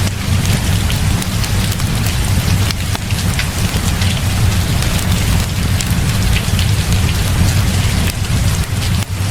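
Heavy rain pouring steadily, with a deep low rumble underneath and many small sharp drop ticks on top.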